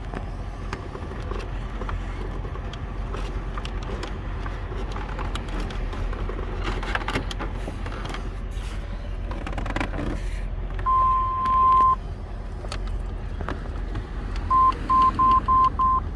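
Plastic dashboard trim being handled and pressed back onto its clips, with scattered clicks and knocks. About two-thirds of the way through, an electronic beep sounds steadily for about a second, and near the end five short beeps follow in quick succession.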